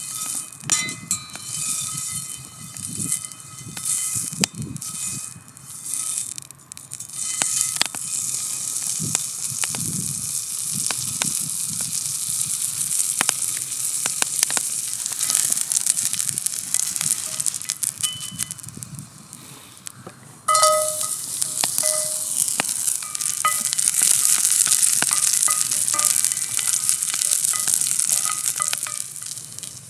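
Sirloin steak searing in a Turk Classic forged-iron frying pan over a wood fire: a steady fat sizzle with sharp pops and crackles. About two-thirds of the way through, the sizzle dies down briefly, then jumps back suddenly louder and spits harder.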